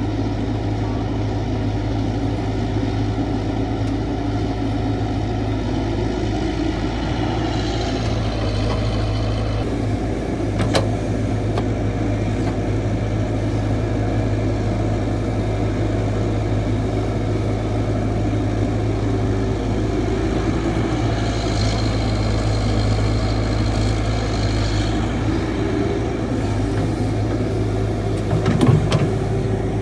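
Caterpillar 312 hydraulic excavator's diesel engine running steadily, with a high whine from the hydraulics in two stretches, about a quarter of the way in and again past two-thirds. A sharp click near the middle and a knock near the end.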